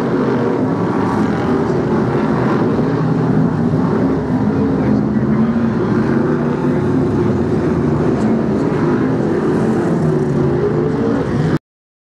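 Several Brisca F1 stock cars' V8 engines running together on the oval, a loud, steady mix of engine notes that waver as the cars circulate. The sound cuts off suddenly near the end.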